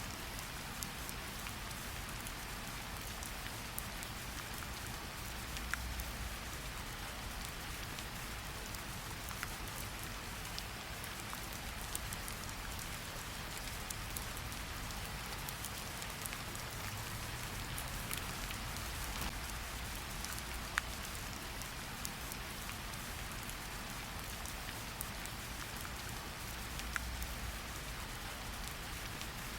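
Steady rain hiss mixed with a crackling log fire, a sharp pop every few seconds. A low rumble swells now and then underneath.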